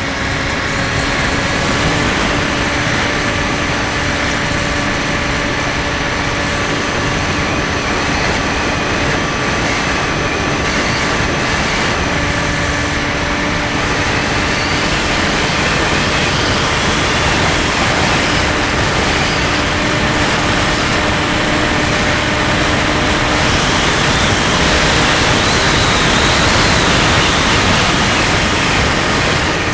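Skywalker 1680's electric motor and propeller running at a steady pitch, with loud rushing wind noise over the microphone.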